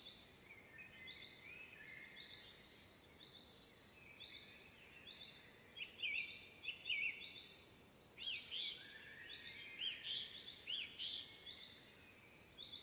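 Several songbirds chirping and singing in woodland in spring: short repeated whistled notes, busiest and loudest in the middle.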